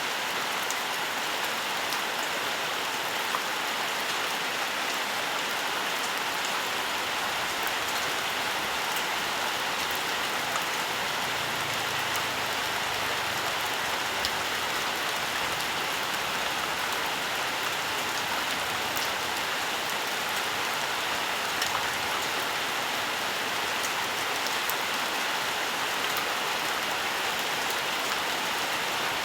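Steady, even rainfall, with frequent sharp ticks of single drops striking.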